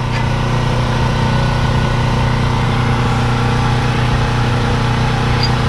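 A steady motor hum at one unchanging pitch, like an engine idling.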